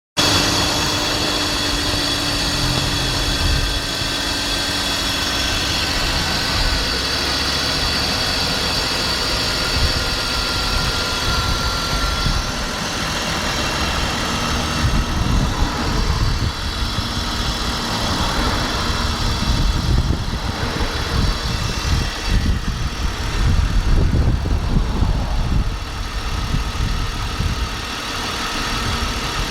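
Cold car engine idling with a metallic noise, which the owner suspects comes from the BMW Vanos variable valve timing unit or from a wobbly engine-driven cooling fan blade on its viscous fan clutch. A steady whine sits over the idle for the first half, and the sound turns rougher and more uneven later.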